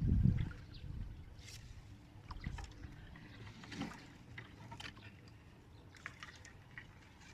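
Water sloshing and dripping around a small boat, with a heavy low thump right at the start and scattered small clicks and chirps after it.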